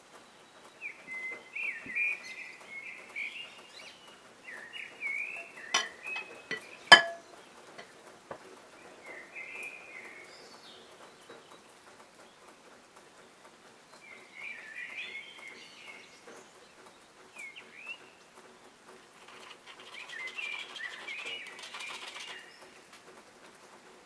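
Birds chirping in short, repeated bursts of quick, wavering calls. Two sharp clinks come about six and seven seconds in, the second the loudest sound.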